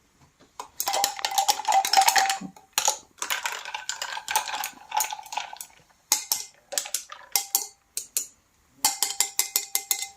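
Metal utensil clinking rapidly against a glass while stirring a drink, in several bursts with short pauses, each clink ringing at the same pitch.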